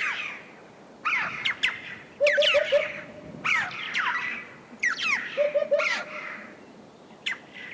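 Red-billed choughs of the Central Asian form giving harsh, downward-sweeping calls again and again, while a hoopoe sings its low, regular 'oop-oop-oop' phrase of three or four notes twice, about two seconds in and again after five seconds.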